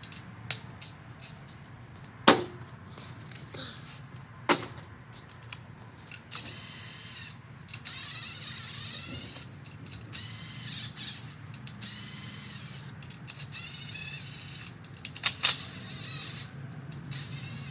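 Hand ratchet clicking in runs as bolts are worked loose, with a few sharp knocks of tools or parts, the loudest about two seconds in and again about four and fifteen seconds in.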